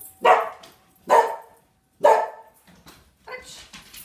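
Dogs barking at the doorbell: three loud barks about a second apart, then quieter yips near the end, as the last of the doorbell chime fades.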